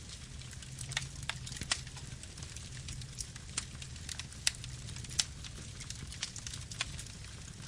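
Campfire burning: a steady low rumble of flames with irregular crackles and sharp pops of burning wood.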